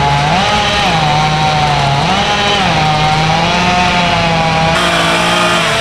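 Two-stroke chainsaw running at high revs while cutting trees, its pitch sagging and recovering several times as the chain bites into the wood.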